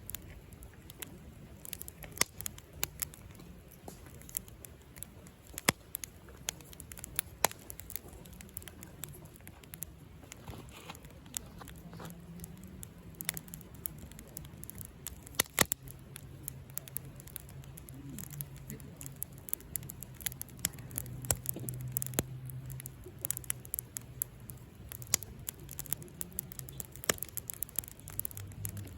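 Campfire of burning firewood crackling, with irregular sharp pops and snaps several times a second.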